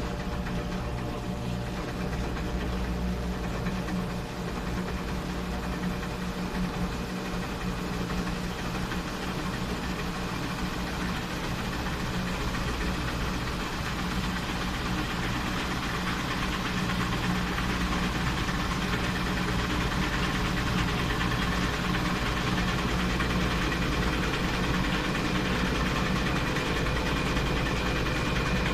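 A washing machine running through a full wash cycle. A steady motor hum with a few fixed tones grows slightly louder about halfway through.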